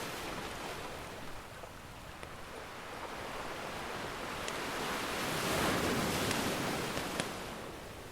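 Ocean surf, one wave swelling and washing in past the middle and then drawing back, with a few sharp pops from a crackling wood fire.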